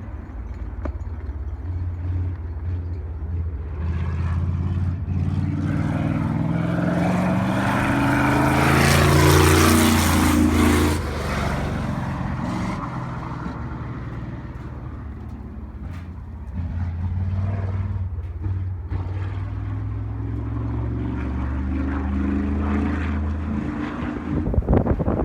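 Sprint car's V8 engine running at speed around the track, growing louder to a peak about ten seconds in as it passes and drops in pitch, then fading and building again later as it comes around.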